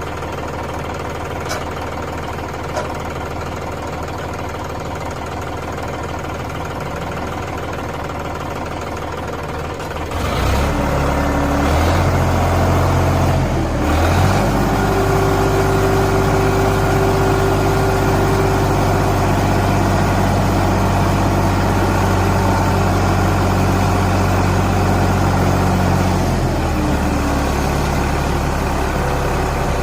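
Sonalika DI 47 RX tractor's diesel engine idling steadily. About a third of the way in it speeds up and runs louder at a steady higher speed, then drops back toward idle near the end.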